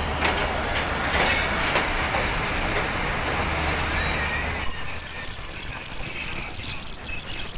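Pakistan Railways express train rolling slowly into a station, heard from the coach window. A high steady squeal starts about two seconds in and grows louder as the train brakes. The low running rumble fades about halfway as it nears a stop.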